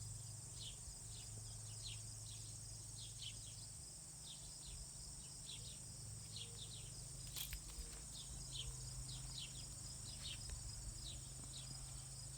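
Faint outdoor insect drone, a steady high-pitched buzz, with short falling chirps repeating every half second or so over a low steady hum.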